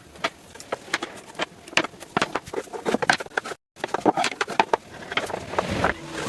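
Irregular sharp knocks and clicks over a noisy background, broken by a short dead-silent gap a little past halfway.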